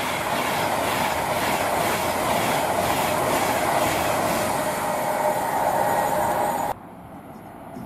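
Class 390 Pendolino electric train passing at speed close by: a loud, steady rush of wheel and rail noise with a regular clatter about twice a second. It cuts off suddenly about seven seconds in, leaving a faint hiss.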